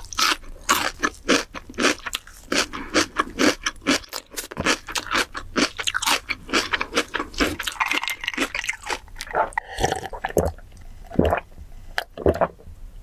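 Close-miked eating: rapid, crisp crunching and chewing, several crunches a second.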